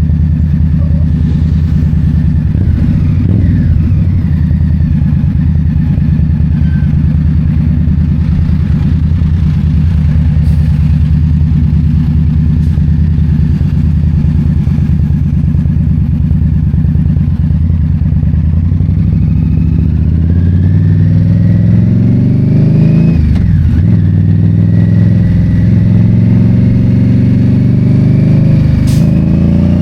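2022 Indian Scout Bobber's V-twin engine, loud and running at a steady speed, then rising in pitch as it accelerates about two-thirds of the way through. The pitch dips sharply twice and climbs again, like gear changes.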